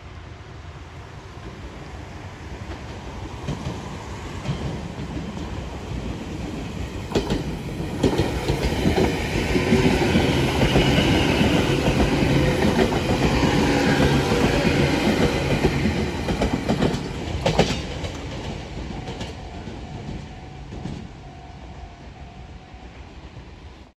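A red Meitetsu electric train passing close by, its wheels clattering over rail joints. The rumble builds, is loudest about halfway through, with a few sharp clacks, then fades as the train goes away.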